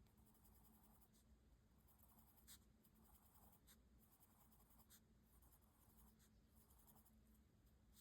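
Faint scratching of a graphite pencil drawing on paper, in short strokes, a few of them sharper than the rest.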